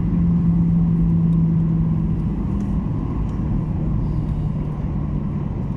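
Cabin noise of a Skymark Boeing 737-800 taxiing after landing. The jet engines and airframe make a steady rumble with a low hum that drops slightly in pitch about halfway through.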